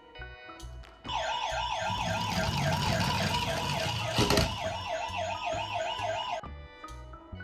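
Toy ambulance's electronic siren sounding. It starts about a second in as a fast warbling yelp that rises and falls about three times a second, then cuts off near the end, with a single knock midway.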